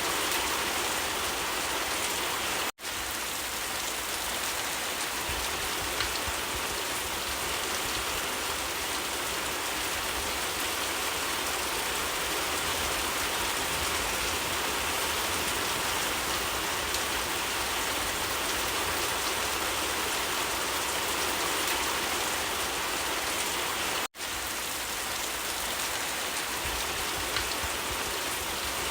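Steady rain falling, an even hiss of many drops, which cuts out for an instant twice, a few seconds in and again near the end.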